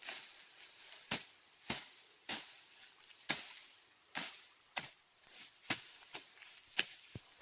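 A hand tool striking hard material in repeated sharp blows, about one every half second to second at an uneven pace, as in chopping or hammering at stone or ground.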